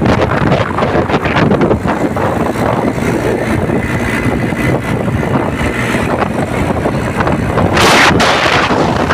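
Wind buffeting the microphone, a loud, rough rushing rumble that rises and falls in gusts.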